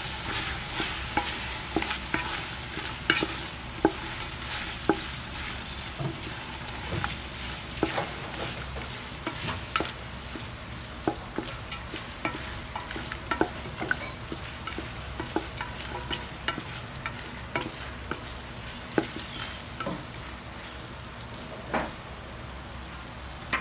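Chicken pieces and sliced hot dogs sizzling in a stainless steel pot as they are sautéed, stirred with a wooden spatula that scrapes and knocks against the pot in irregular taps over a steady frying hiss.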